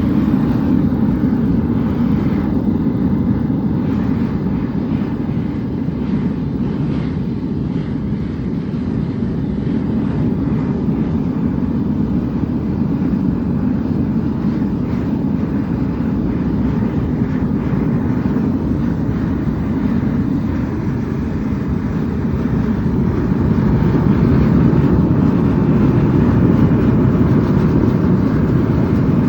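Diesel-fired foundry furnace, a refractory-lined 55-gallon barrel with blower and compressed atomizing air, burning with a steady low rushing noise as it warms up from cold. It grows a little louder near the end.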